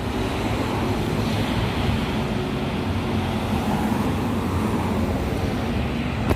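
Steady rumbling and rushing noise of a moving vehicle, with no clear engine note.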